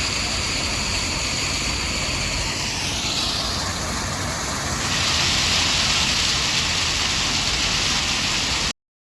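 Heavy machinery running, a steady mechanical din that gets louder and hissier about five seconds in, then cuts off abruptly near the end.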